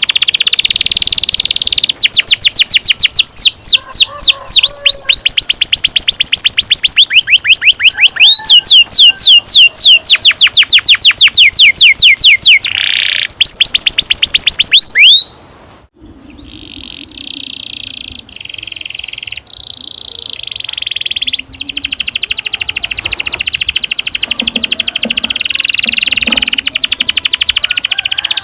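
Domestic canary singing long rolled trills: fast runs of rapidly repeated, sweeping notes. The song breaks off briefly about halfway through, goes on in quieter, choppy trills, then returns to a loud continuous roll.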